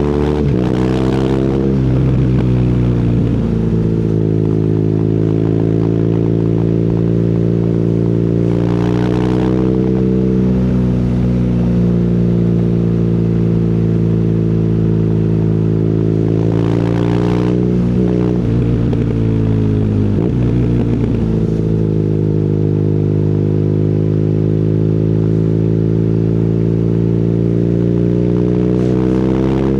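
BMW R nineT's air/oil-cooled boxer twin running through an Akrapovic exhaust while riding, mostly at a steady engine speed, with the pitch dropping and climbing again a few times as the rider eases off and accelerates. Brief rushes of noise come about a second in, around nine seconds and around seventeen seconds.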